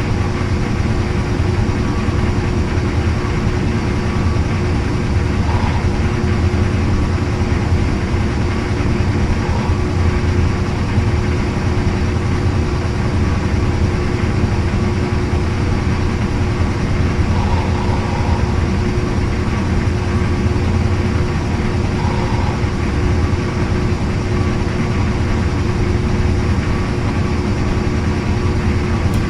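Old-style washing machine running: a steady low motor hum with a constant tone above it.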